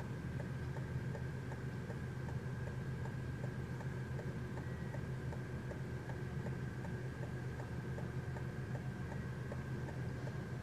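Railroad crossing warning bell ringing at an even, rapid pace, heard faintly from inside a car over a steady low hum, while the crossing gates malfunction.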